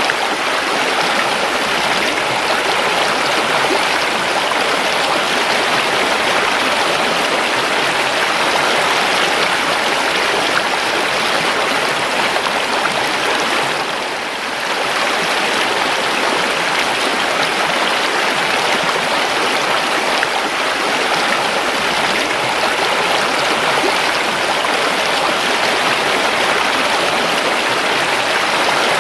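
River water flowing steadily over rocks in an even rush, dipping briefly in loudness about halfway through.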